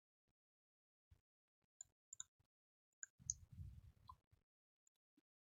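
Near silence with a few faint, scattered computer keyboard clicks.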